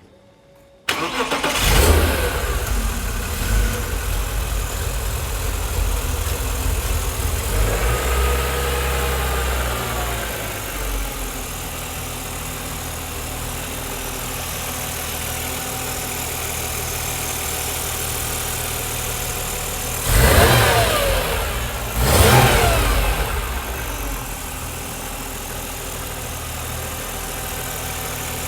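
BMW Z3 M's 3.2-litre straight-six cold-starting: it fires and catches about a second in, runs at a fast cold idle and settles lower about ten seconds later. It is blipped twice near the end.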